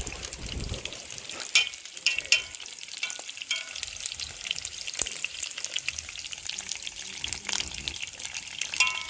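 Food frying in hot oil in a pot: a steady sizzle full of small crackles and pops, with a few brief metallic clinks about two seconds in.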